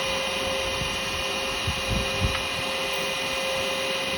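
Wood lathe running with a steady motor hum while a carbide cutter works a spinning yew blank, with a few short low knocks about two seconds in.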